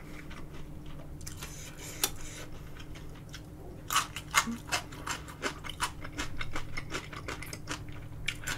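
Close-miked chewing of food: a scatter of small crunchy clicks and wet mouth noises, thickest about four to six seconds in.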